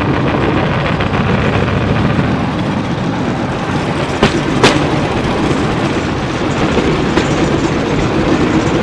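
Bamboo train (norry) running fast along the rails: a steady rattling rumble of the flat car and its wheels, with a few sharp clacks over the rail joints.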